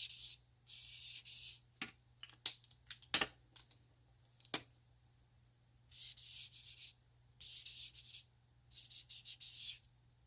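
Green markers stroked quickly across glossy photo paper, making short hissing scratches in rapid runs. A few sharp clicks fall between the runs, about two to four and a half seconds in.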